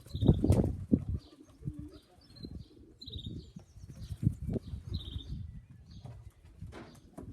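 Domestic pigeons cooing around a loft, with short high chirps of small birds repeating. A loud low rumble fills the first second.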